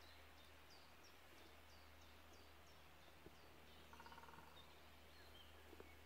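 Faint woodland birdsong: a small bird repeats a high, falling note about three times a second, stopping after two and a half seconds, and a brief rapid chatter follows about four seconds in. Two sharp snaps of twigs underfoot come near the middle and near the end.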